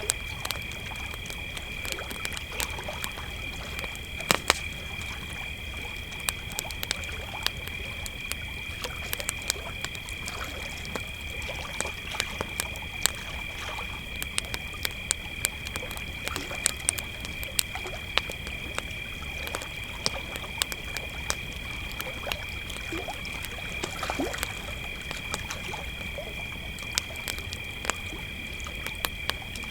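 Crickets trilling in a steady, unbroken high tone over a crackling campfire, with frequent sharp pops and snaps of burning wood at irregular intervals.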